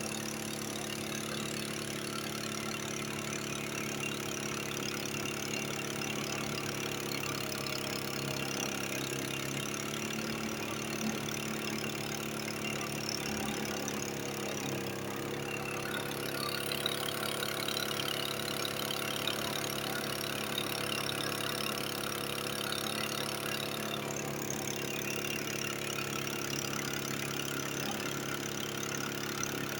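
An engine running steadily at a constant speed, with slight shifts in pitch about ten and fifteen seconds in.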